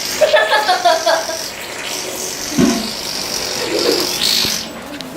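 Steady hiss of rain and splashing water. About half a second in, a child's high-pitched voice shouts or squeals for about a second.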